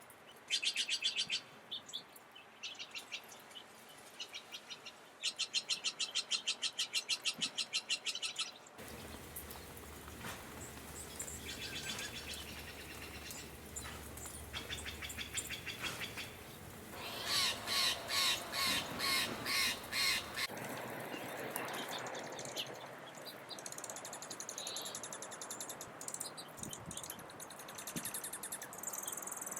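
Wild songbirds calling: two runs of rapid, high trilled notes in the first few seconds, then a series of about six harsh, loud calls a little past halfway, with softer high chirps near the end.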